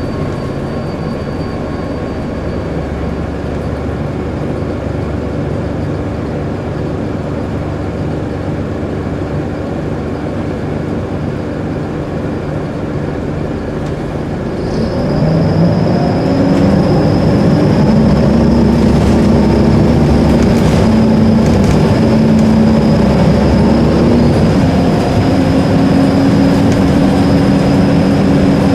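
Diesel city bus engine running steadily at a low, even pitch; about halfway in it revs up and its pitch rises as the bus pulls away, with a thin high whine joining and staying on.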